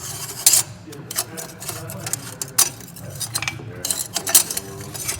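Metal hand tools, sockets and wrenches, clinking and clanking in a series of irregular sharp knocks over a steady low hum.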